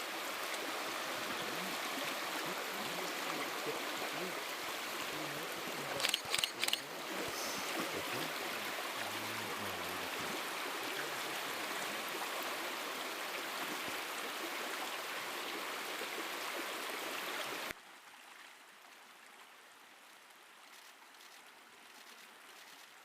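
Steady sound of a stream's running water, with a brief cluster of sharp knocks about six seconds in. Roughly three-quarters of the way through, the water sound cuts off abruptly, leaving a much fainter, steady background.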